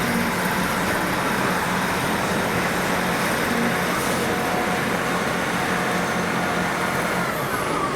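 Train standing at a station platform with its engines and equipment running: a steady rumbling hum, and a falling whine near the end.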